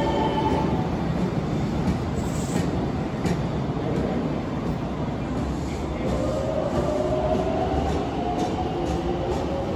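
Kintetsu electric commuter train moving along an underground station platform: a steady rumble of wheels on rail with scattered sharp clicks. From about six seconds in, an electric motor whine rises slowly in pitch as it accelerates.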